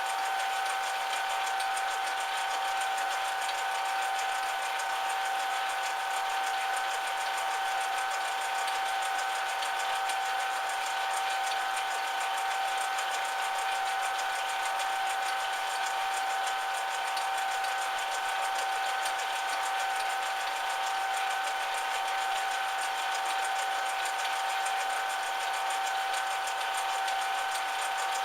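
Metal lathe running steadily, with an even whine that holds one pitch throughout.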